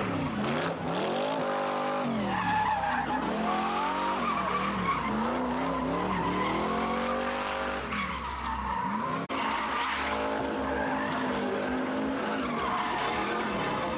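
Car engine revving up and down again and again while the tyres squeal and skid, as in a burnout or donuts.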